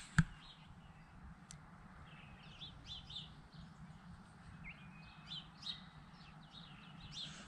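Faint wild birds calling: scattered short chirps and quick twitters throughout, over a low steady hum. A single sharp click sounds just at the start.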